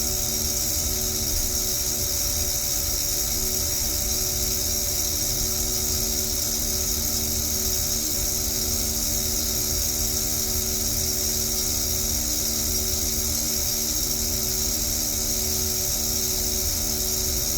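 Steady aircraft noise in flight with steady hum tones under it while the overhauled valve is shuddering. This is the fault being recorded: the valve shudders even after overhaul.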